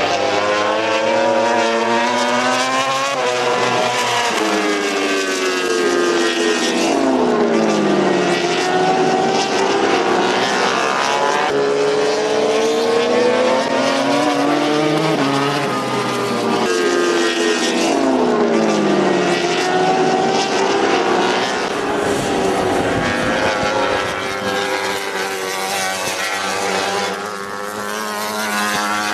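Several racing motorcycles passing at speed, their engines overlapping and repeatedly rising and falling in pitch as they rev through the gears and go by.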